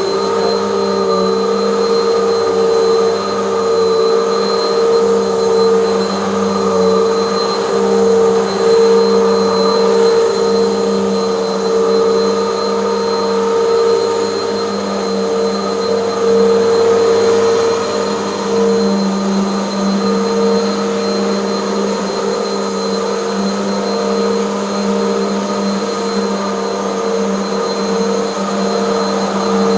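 Hoover bagless vacuum cleaner running steadily, its motor giving a constant whine of several held tones over a rush of airflow.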